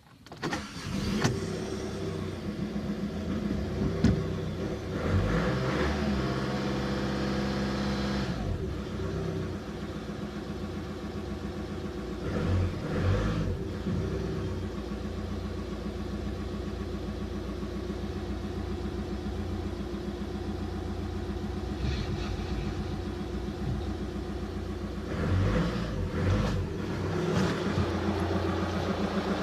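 A 2008 VW Passat B6 two-litre engine starting and running, its speed raised briefly a few times, while its freshly rebuilt alternator is tested.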